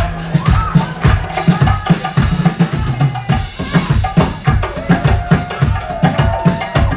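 A Turkish psychedelic folk-rock band playing live: a steady, driving drum-kit groove of kick and snare with bass, and a melodic instrument line above it.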